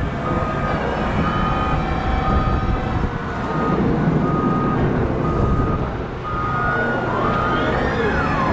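Cat 972M XE wheel loader's diesel engine running under load, with its reversing alarm beeping about once a second. The engine pitch slides down near the end.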